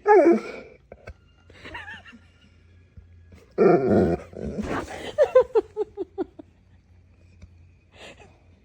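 A dog vocalizing in several loud pitched calls, then a quick run of about eight short cries that fall in pitch.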